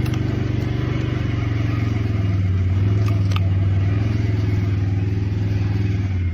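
A steady low engine-like drone with a fast, even pulse.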